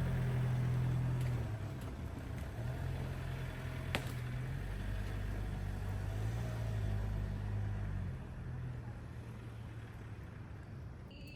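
A vehicle engine running, a low hum whose pitch shifts up and down a few times. There is one sharp click about four seconds in, and the hum fades near the end.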